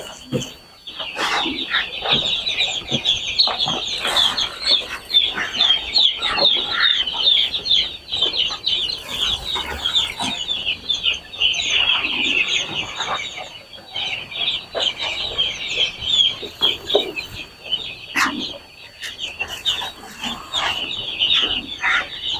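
Dense, unbroken chorus of high peeping from a brooder full of week-old broiler chicks, with scattered light knocks.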